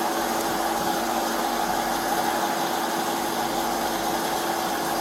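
Steady engine hum, as of a vehicle idling, with an even hiss over it.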